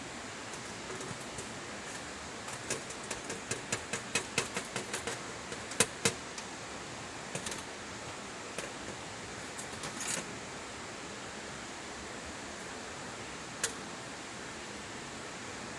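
Wood fire crackling: a quick run of sharp, irregular snaps a few seconds in, then scattered single pops, over a steady hiss.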